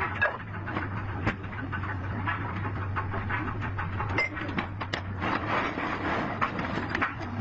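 Workshop work on a truck gearbox: irregular metal clinks and knocks over a steady low hum.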